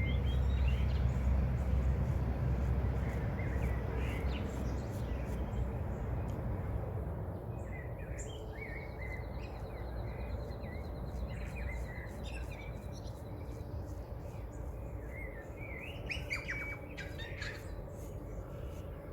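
Birds singing and chirping in short, scattered phrases, with a rapid, even trill partway through. A low rumble fades away over the first several seconds.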